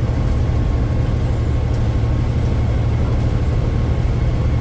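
Diesel engine of a 1980 Kenworth K100E cab-over truck running with a steady low drone, heard from inside the cab.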